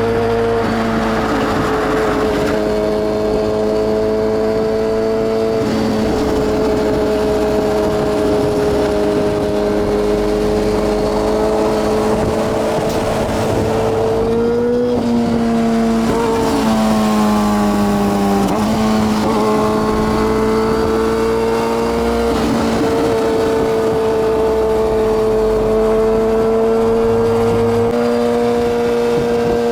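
Yamaha R6 600 cc inline-four engine running at high revs, holding a high, nearly steady pitch; about halfway through the pitch drops and glides lower for a few seconds, then jumps back up and holds steady again.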